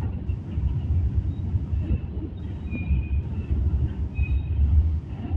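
Freight train of open wagons rolling past: a steady low rumble of wheels on the rails, with brief faint high squeals now and then.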